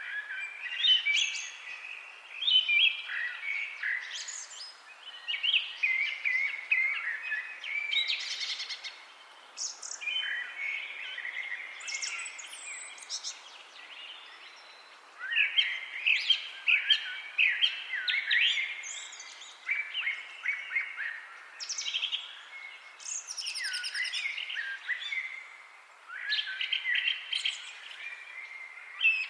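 Several small birds singing and chirping at once in a continuous, overlapping chorus of quick trills and high chirps, over a faint steady hiss.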